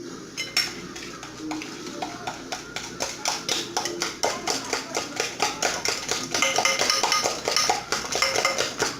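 A utensil beating eggs and sugar in a bowl, striking the bowl in a quick, regular clatter. It starts sparse and settles into a steady rhythm of several strikes a second after a couple of seconds.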